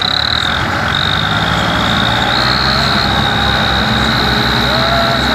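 Tractor diesel engines running steadily under load, with a high steady whine over the engine noise.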